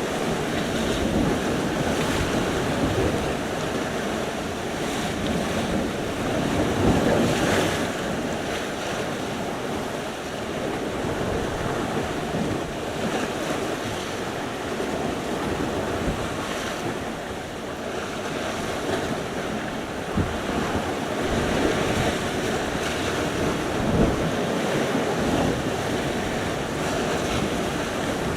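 Sea surf: waves breaking and washing in a continuous rush that swells and eases, with wind buffeting the microphone. A wave breaks louder about seven seconds in.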